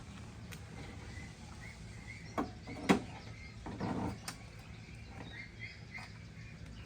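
Birds chirping faintly over steady outdoor background noise, broken by a few sharp knocks or clicks, the loudest about three seconds in and a short cluster about a second later.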